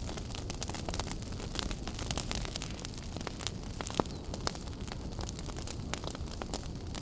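Wood fire in a fireplace burning with a steady low rumble and frequent irregular crackles and pops, one sharper pop about four seconds in.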